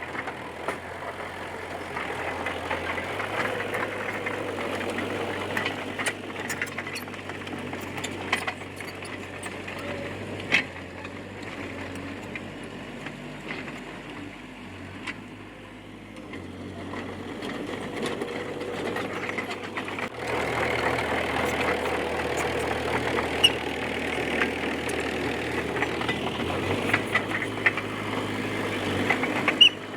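D20P bulldozer's diesel engine running under changing load, with scattered sharp clanks. It eases off in the middle, then picks up suddenly about two-thirds through.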